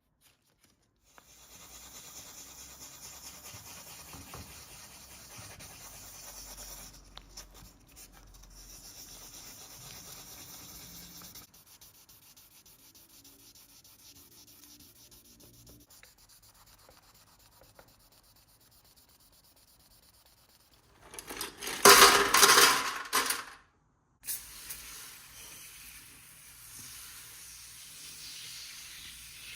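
Sanding and rubbing of car body panels in several cut-together stretches of steady abrasive noise. A much louder hissing burst lasts about two seconds a little past the twenty-second mark.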